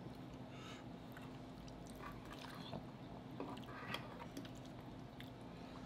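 Faint chewing and mouth sounds of people eating a soft, cheesy spinach casserole, with a few soft clicks and scrapes of forks in ceramic bowls scattered through.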